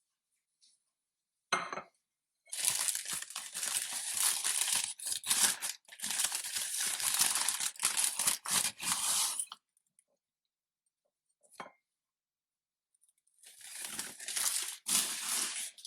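Tearing and crinkling of some thin material, in two long stretches of dense rustling with a couple of short sharp sounds before and between them.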